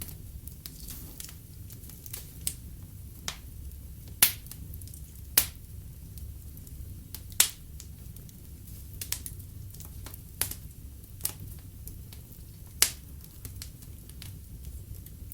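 Wood fire crackling in a fireplace: irregular sharp pops and snaps from the burning logs, four or five of them markedly louder, over a steady low rumble of the flames.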